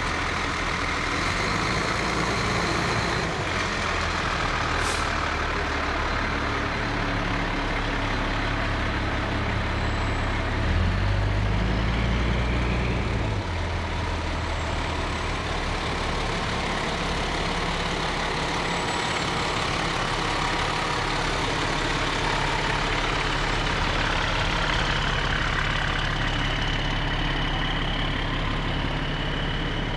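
Fire truck engines running as the apparatus rolls slowly past, a steady low rumble that swells louder and deeper for a couple of seconds about eleven seconds in.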